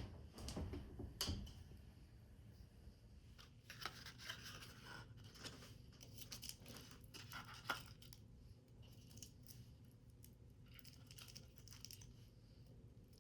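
Faint paper handling: intermittent rustling and crinkling of paper, with a couple of sharp taps.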